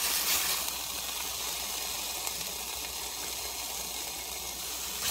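Turkey bologna sizzling in a dry non-stick skillet with no oil, a steady frying hiss.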